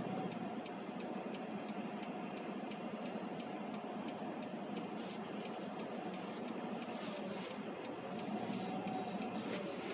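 Road and engine noise heard inside a moving car's cabin, with the turn-signal indicator ticking steadily, a few clicks a second.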